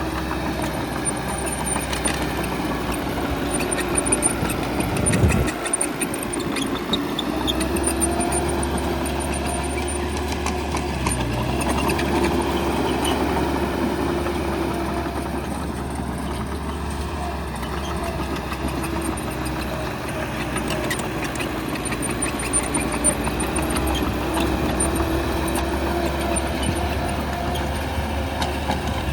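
Bulldozer's diesel engine running steadily while working, with scattered clanks and a short dip in the low rumble about five seconds in.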